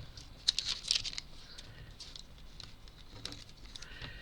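Light clicks and rustles from small parts being handled at a worktable, loudest in a quick cluster about half a second to a second in, then a few scattered faint ticks.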